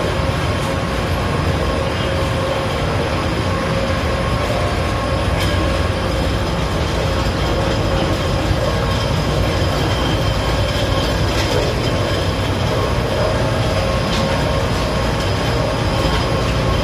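Heat pump sludge dryer running: a steady, loud mechanical drone with a few steady tones over a deep rumble, and occasional faint clicks.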